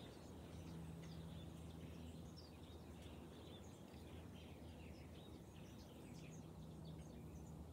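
Faint birdsong: many short chirps and twitters from small birds, over a low steady background hum.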